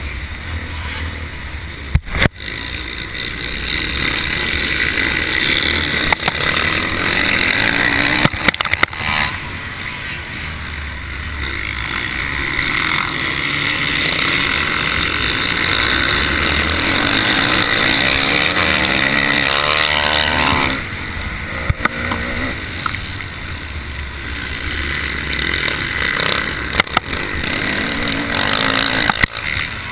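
Motocross bike engine revving up and down under racing load, heard from a camera mounted on the bike, with wind noise and scattered knocks. The engine note drops away sharply about two-thirds of the way through.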